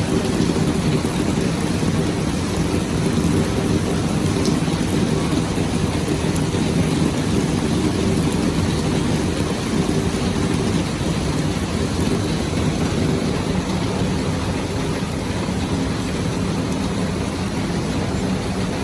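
Heavy rain falling in a steady, dense hiss, with a continuous low rumble underneath.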